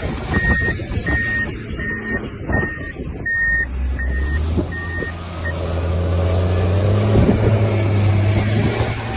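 Heavy vehicle's reversing alarm beeping at an even pace of a little under two beeps a second, stopping about five and a half seconds in, while a diesel-type engine drone comes in and gets louder.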